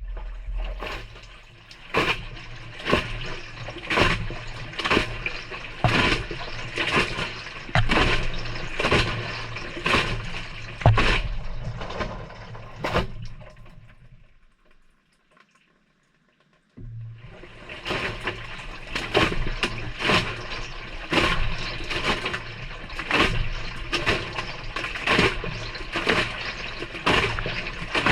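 Maytag front-loader drum tumbling wet laundry on a delicate wash, heard from inside the drum. A low motor hum runs under water sloshing, with a splashing thud about once a second as the load drops. The tumbling dies away about halfway through, stops for a couple of seconds, then starts up again.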